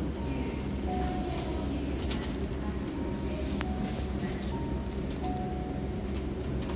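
Steady low hum of a Keihan electric train standing at an underground platform with its doors open. A two-note descending chime repeats several times, and there is one sharp click about three and a half seconds in.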